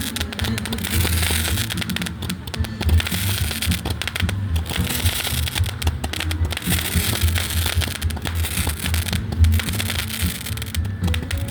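Small rocket firecrackers going off in dense rapid pops and crackles, under background music with a low bass line.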